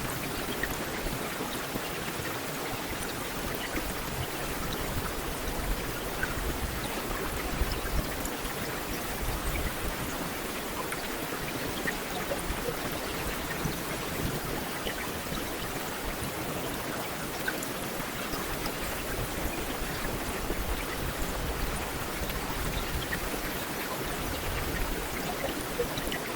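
Heavy rain falling steadily, a dense even hiss with scattered individual drops ticking.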